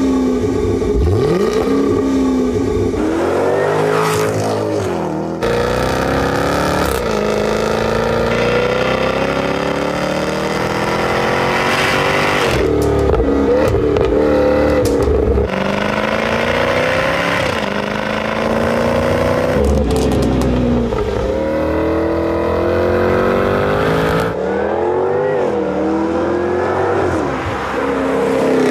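Jaguar F-Type SVR's supercharged V8 accelerating hard through the gears: engine pitch climbs and drops back at each upshift, again and again. The sound jumps abruptly a few times where different driving shots are cut together.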